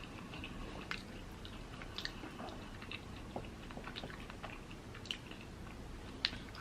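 A person chewing a Korean corn dog close to the microphone, with scattered soft crackles and clicks from the crust.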